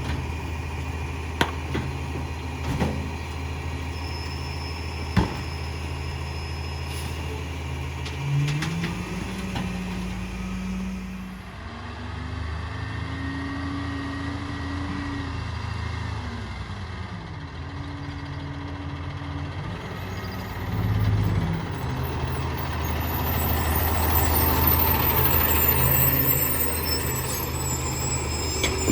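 Peterbilt 348 rear-load garbage truck's diesel engine idling, then speeding up in steps about eight seconds in and holding raised revs until it drops back to idle around twenty-one seconds in, as is typical while the rear packer's hydraulics run. A few sharp clicks in the first six seconds and a growing rush of noise near the end.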